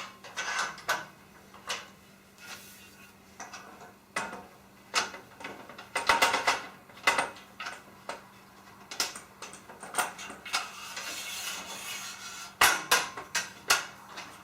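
Irregular light metal clinks and knocks of aluminium extrusions and their bolts and nuts being handled during assembly, with a short stretch of steadier rubbing noise about three quarters of the way through.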